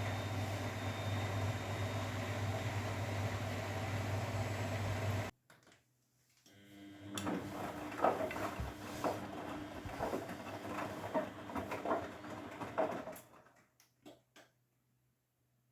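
Grundig washing machine running: a steady low hum stops abruptly about five seconds in. After a short pause the drum turns, with an irregular tumbling and sloshing of the wash about once a second over a steady motor whine. This ends with a few short clicks near the end.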